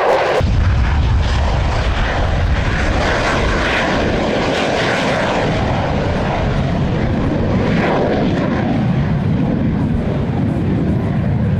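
Aircraft engine noise, loud and steady, coming in sharply about half a second in.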